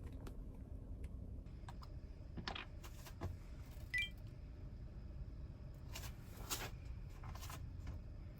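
Light handling noises: scattered small clicks and taps, with a denser run of short rustles from about six to seven and a half seconds in, over a low steady rumble.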